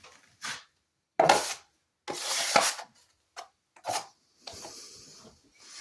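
A series of irregular rough scraping strokes, with two louder ones about a second apart early on and a longer, fainter stretch near the end.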